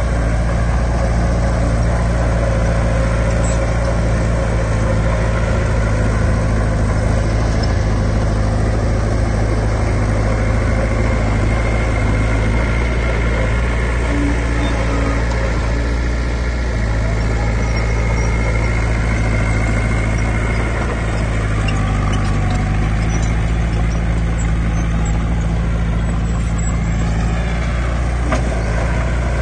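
Heavy diesel machinery running steadily, a deep engine drone with a slight change in engine note about two-thirds of the way through.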